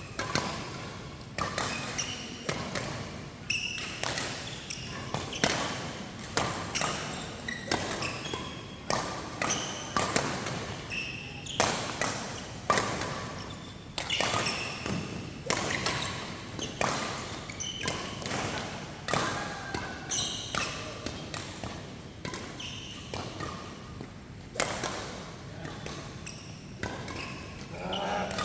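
Badminton doubles rally: rackets striking the shuttlecock in quick exchanges, sharp hits coming about one or two a second with short pauses between rallies, echoing in a large hall.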